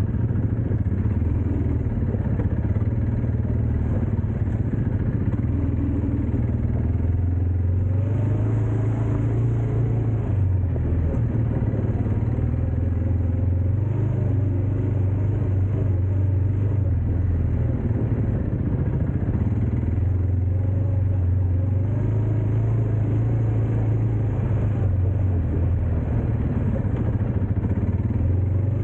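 Dirt bike engine running while riding, its low note rising and falling slightly with the throttle throughout, with some rattling over rough ground.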